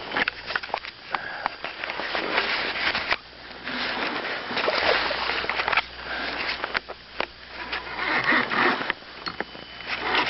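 Irregular knocks, clicks and rustling scrapes from handling fish and gear in a small fishing boat.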